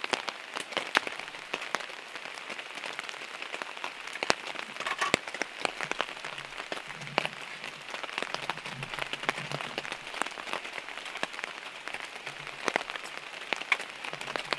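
Rain falling, with many irregular sharp drop strikes on a surface close by.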